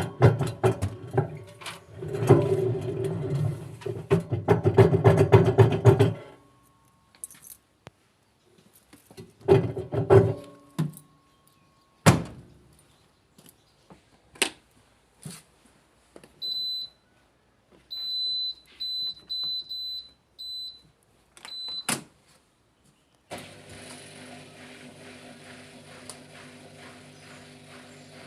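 Fully automatic washing machine: heavy rattling and knocking for several seconds, then again more briefly, with scattered sharp clicks. A series of short, high control-panel beeps follows, then a steady low hum as the machine starts running, about five seconds from the end.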